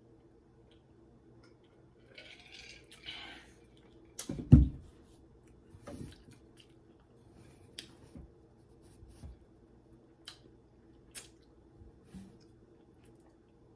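A person eating chicken wings and fries close to the microphone: scattered wet mouth clicks and smacks of chewing, a brief rustle about two to three seconds in, and a dull thump, the loudest sound, about four and a half seconds in.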